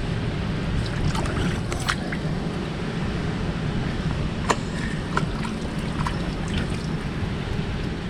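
Strong wind rumbling on the microphone with water lapping and sloshing, broken by a few short sharp ticks.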